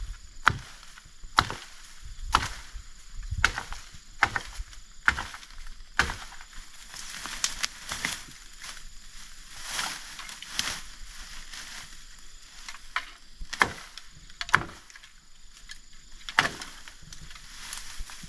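Wood being chopped with a blade: sharp strokes about once a second, then a stretch of rustling, then a few more strokes.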